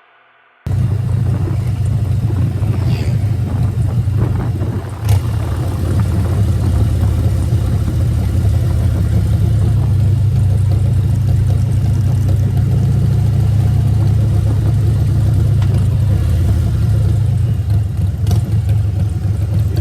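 Harley-Davidson V-twin engine running steadily on the road, cutting in abruptly just under a second in, with a brief sharp knock about five seconds in.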